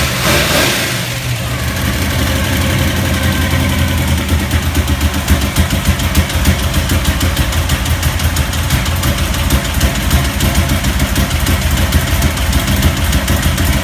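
Chrysler 440 big-block V8 (1971 high-performance version) idling in the first minute after a cold start. It is louder and rougher for about the first second, then settles into a steady idle with an even pulsing beat.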